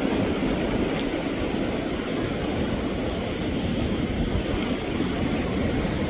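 Steady, rumbling noise of wind on the microphone and sea surf on a rocky shore, with a faint click about a second in.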